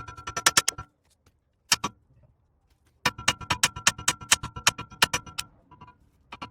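Socket ratchet wrench clicking in quick, even runs with a metallic ring, working nuts loose. The clicking stops for about two seconds in the middle, apart from a couple of single clicks.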